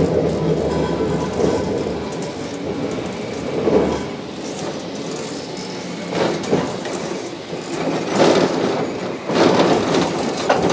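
Streetcar running, heard from inside the car: a steady low motor hum that fades out a few seconds in, then several louder rattles of the car and wheels on the track.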